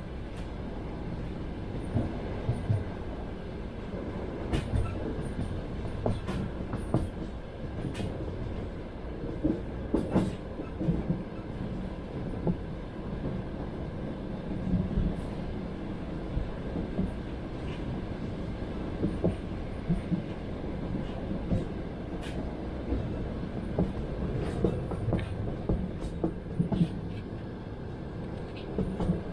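Train running at speed, heard from aboard: a steady low rumble of the carriage with irregular clacks and knocks as the wheels pass over rail joints.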